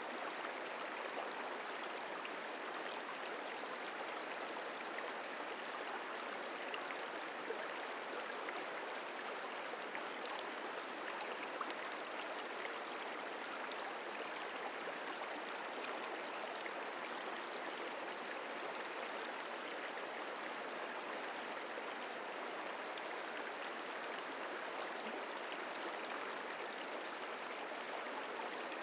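The Merced River flowing over rocks: a steady rush and babble of moving water, unchanging throughout.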